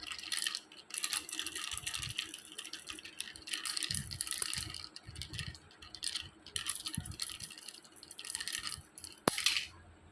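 A puppy scrabbling where it is stuck: irregular bursts of scratching and rattling, with a sharp click near the end.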